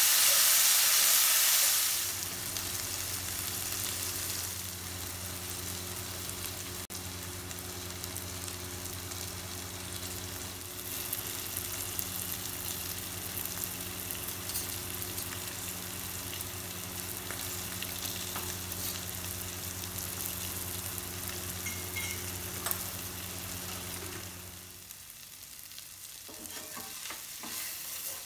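Chopped citron pieces sizzling in oil in a stainless steel pan while a wooden spatula stirs them; the sizzle is loudest in the first couple of seconds. A steady low hum runs beneath the frying until a few seconds before the end, when the hum stops and scraping stirs of the spatula against the pan come through.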